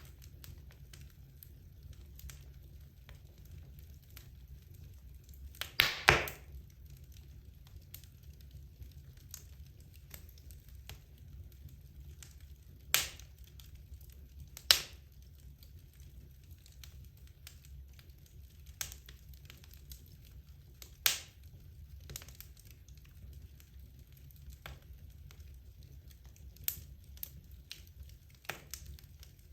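Wood fire burning in a fireplace: a low steady rumble of flame with scattered crackles and a handful of louder sharp pops from the burning logs, the loudest a quick cluster of pops about six seconds in.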